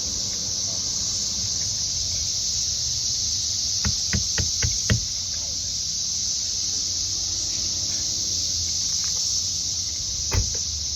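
A loud chorus of periodical cicadas: a steady, high hiss that does not let up. A quick run of five sharp knocks comes about four seconds in, and one more near the end.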